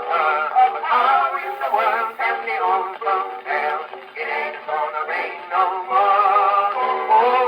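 Music from a 1924 acoustic-era record, thin and narrow in range with no deep bass, its wavering melody lines carrying on without any transcribed words.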